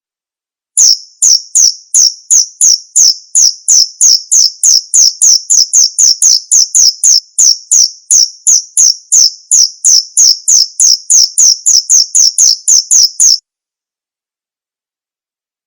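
Male cricket chirping: a long, even run of short, loud, high chirps, about three a second. It starts suddenly just under a second in and stops abruptly a couple of seconds before the end.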